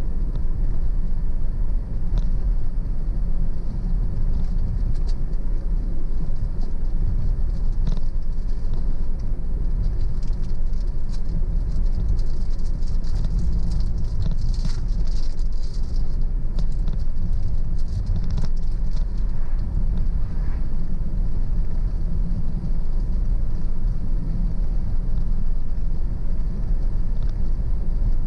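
Car driving along a road: a steady low rumble of engine and road noise, with faint clicks and rattles now and then in the middle stretch.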